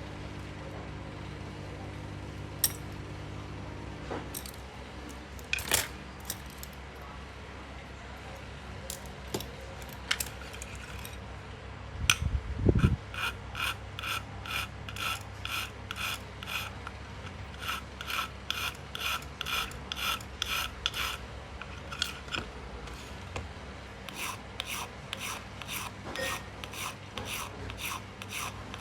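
Hand scraping or rasping strokes in a steady back-and-forth rhythm, about two to three strokes a second, starting about halfway through after a loud scrape. Before them there is a low steady hum with a few sharp clicks.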